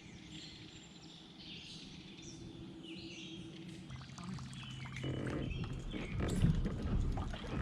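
Faint bird chirps over quiet outdoor background. From about five seconds in, a louder stretch of rustling and clicks takes over.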